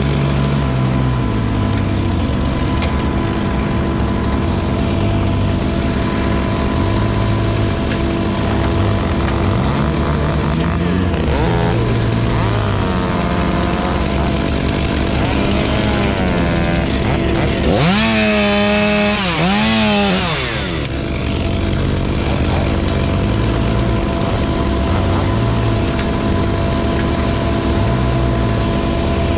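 Chainsaw running over the steady drone of a larger engine, its pitch rising and falling as it revs and cuts. It is loudest about eighteen to twenty-one seconds in.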